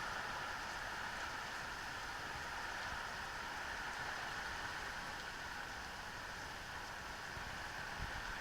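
Steady rain hiss, with a brief low thump near the end.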